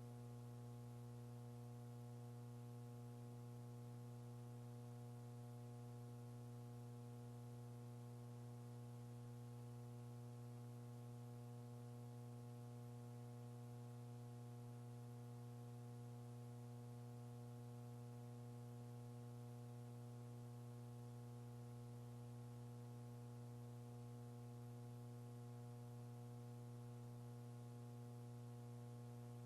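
Steady electrical hum with a faint hiss on an open voice communications loop between callouts. The hum is unchanging and has a stack of even overtones.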